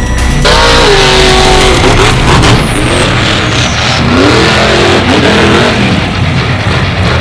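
Monster truck engine revving hard and loud, its pitch dropping about a second in and climbing again around four seconds in as the throttle is worked.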